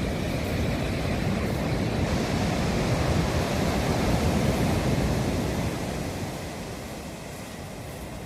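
Rough sea waves surging and breaking on the shore. The rush builds to a peak about halfway through, then eases off.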